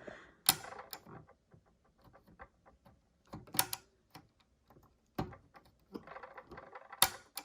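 Small hard plastic toy pieces clicking and clattering as serving trays and food pieces are handled and set into a plastic toy airplane. The sound is many small irregular clicks with a few louder knocks scattered through.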